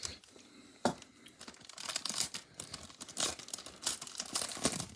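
A trading card pack wrapper being torn open and crinkled by hand, an irregular crackling with a few sharp snaps.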